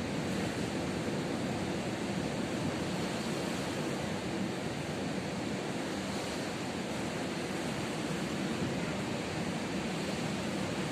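Ocean surf breaking and washing on a beach, a steady rushing noise, with some wind on the microphone.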